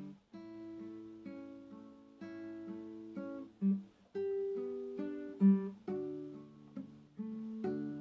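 Acoustic guitar playing a slow, gentle piece, notes plucked one after another and left to ring, with a brief pause just after the start and two louder bass notes in the middle.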